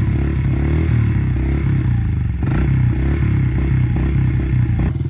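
Honda CRF70 dirt bike's small single-cylinder four-stroke engine running on the choke, not yet warmed up.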